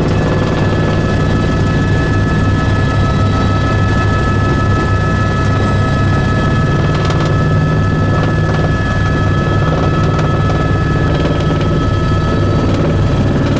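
Helicopter running steadily: a loud, even low rotor drone with a steady high whine over it.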